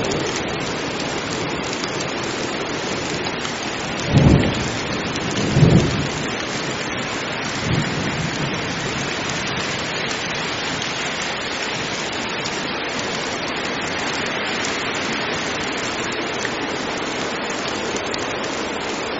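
Heavy rain falling steadily, with two loud, low claps of thunder about four and six seconds in and a fainter rumble shortly after.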